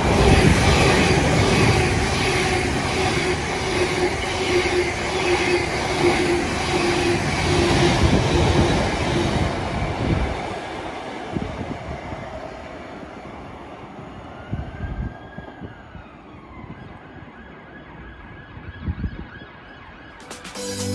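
Thameslink Class 700 electric multiple unit passing at speed: a steady traction whine over the rumble of wheels on rail, fading away after about ten seconds. A faint rising-and-falling tone is heard about halfway through.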